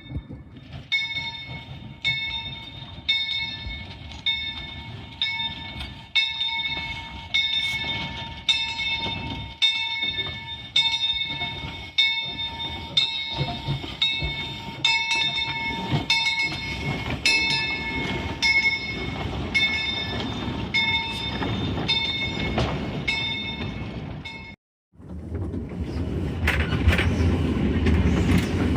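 Steam locomotive bell ringing at a steady pace of about one stroke a second, each stroke ringing on. Near the end the bell cuts off abruptly and gives way to louder rumbling train noise.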